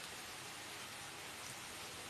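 Pork sizzling steadily on a Teflon grill pan, an even hiss.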